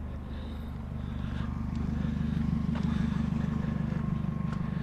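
Car engine idling steadily, growing a little louder about a second in, with a few faint knocks over it.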